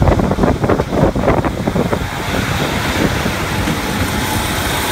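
A diesel multiple unit passing close by. Heavy, uneven thumping and rumble in the first two seconds settles into a steady rolling noise with a faint whine.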